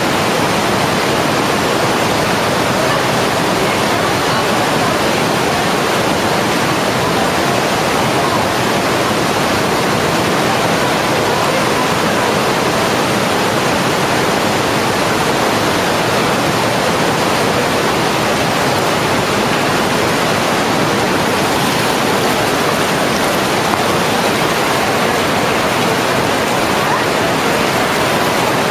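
Fast-flowing water rushing loudly and steadily, the sound of a waterfall and its stream.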